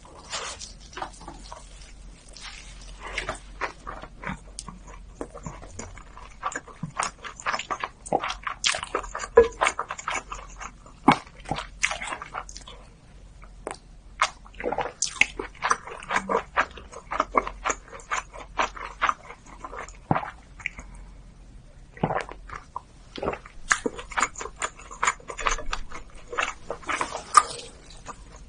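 Close-miked eating: irregular wet mouth clicks and smacks of chewing, with a short pause about two-thirds of the way through.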